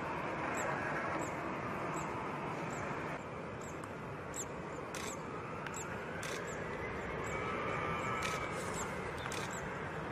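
Steady outdoor background noise with a faint high chirp repeating about twice a second, and a faint tone that rises and then falls in the second half.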